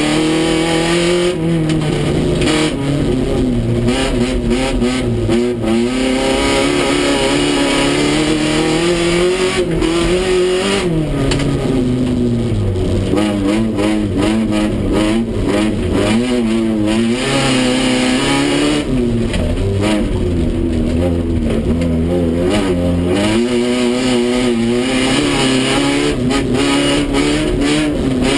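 Honda Civic race car's engine heard from inside its stripped, roll-caged cabin, revving hard with its pitch rising and falling again and again as it races on a dirt track.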